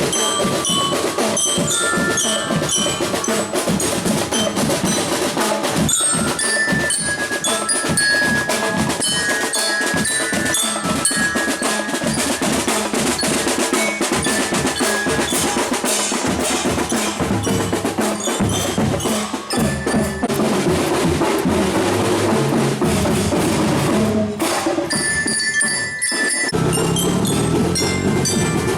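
Drum band playing: snare and bass drums beating under a glockenspiel-like bell lyre carrying the melody. The texture thins briefly near the end, then lower notes come in.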